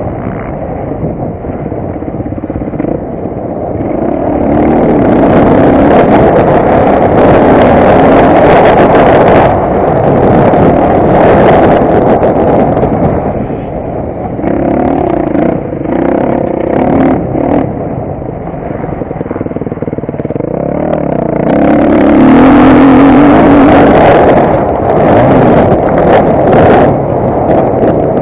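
Motocross motorcycle engine ridden hard, loud, its revs rising and falling again and again as the throttle is opened and shut.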